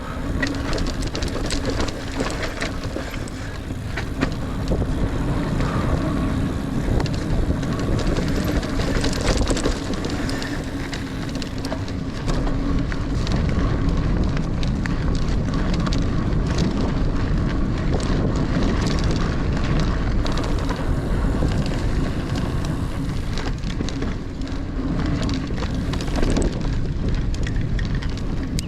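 Niner Air 9 RDO 29er mountain bike ridden along dirt singletrack: tyres rolling over the trail, with frequent rattles and clicks from the bike and wind rushing on the microphone.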